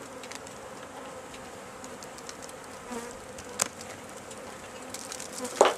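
Honeybees from an opened tree-cavity colony buzzing steadily around the hive, stirred up enough to bump into the beekeeper's veil. A single sharp click comes partway through.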